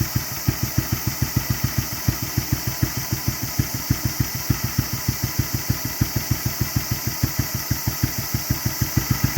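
Kawasaki 250 Meguro SG's single-cylinder four-stroke engine idling, its exhaust beating evenly at about six to seven pulses a second.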